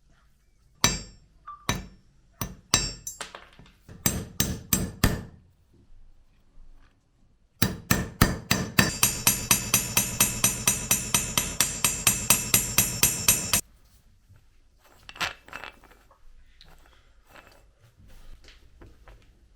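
Metal clinks and knocks, a handful of single strikes and a quick run of taps, then about six seconds of steady ringing metallic whirring with regular ticks about four a second that cuts off suddenly.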